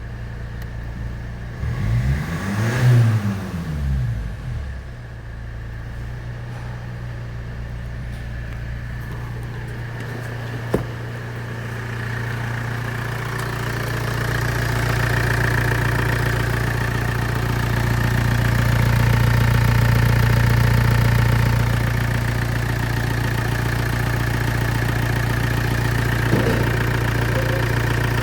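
Kia Sorento 2.2 CRDi D4HB four-cylinder common-rail diesel engine on test: revved once, its pitch rising and falling back, then idling steadily. There is a single sharp click about eleven seconds in.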